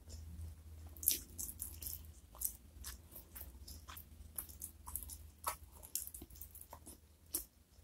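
Close-miked eating sounds of fried chicken and rice eaten by hand: wet chewing with many sharp, irregular crunchy crackles, over a faint low hum.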